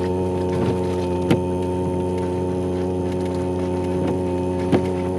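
Four-wheel-drive vehicle's engine running at a low, steady speed as a constant drone, with two light clicks, about a second in and near the end.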